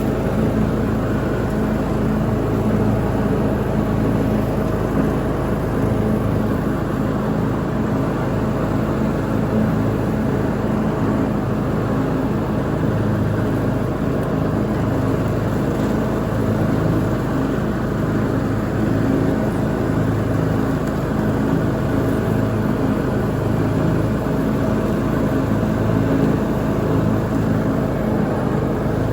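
Lawn mower engine running steadily at constant speed while mowing, its even hum unbroken throughout.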